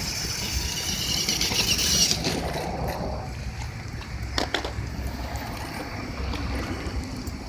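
Electric RC truck running as it drags a second, unresponsive RC truck around: a faint high motor whine over a low rumble for the first couple of seconds, then a single sharp knock about halfway through.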